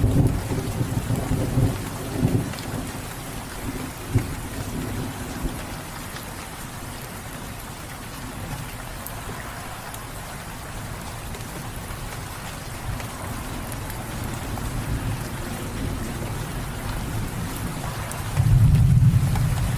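Steady rain with thunder: a low rumble dies away over the first couple of seconds, and another rolls in near the end.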